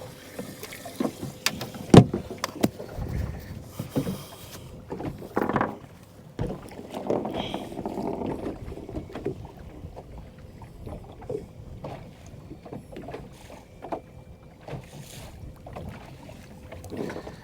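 Small boat at anchor in a light chop: water slapping against the hull, with scattered knocks and clicks, the loudest a single sharp knock about two seconds in.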